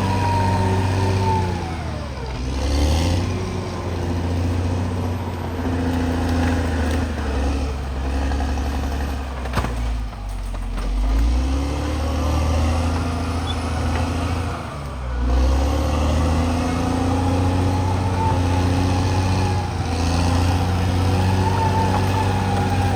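CAT D6R XL bulldozer's diesel engine running under load, its pitch sagging and recovering about three times as the blade takes on material and lets off.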